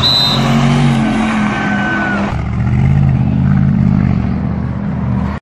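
Sports car engines running and accelerating as the cars pull away through the street. About two seconds in, the sound changes abruptly to a second car's engine, which grows louder.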